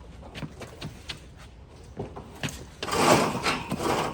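Heavy heat pump pool heater cabinet being wiggled down by hand: a few light knocks, then a loud scraping slide that lasts over a second near the end.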